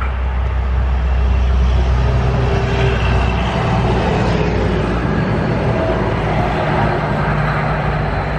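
A motor running steadily and loudly, with a low hum and a few tones that drift slowly in pitch.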